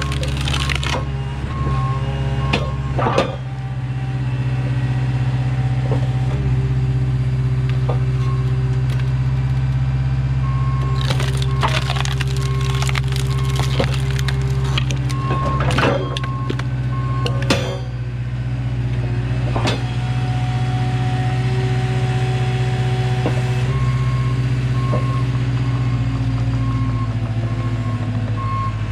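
Skid steer engine running steadily while it works a hydraulic log splitter attachment, its backup alarm beeping in stretches at the start, through the middle and near the end. Sharp cracks and snaps of big wood rounds breaking apart a few seconds in, in a cluster through the middle, and once more after it.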